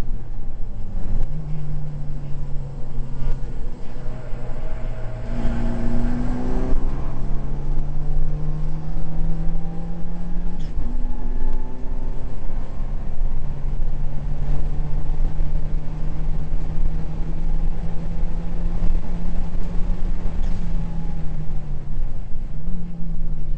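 Mitsubishi Lancer Evolution VII's turbocharged four-cylinder engine heard from inside the race car's cabin, pulling under load at racing speed. Its note climbs slowly and drops at gear changes, about a second in and about ten seconds in, then changes again near the end.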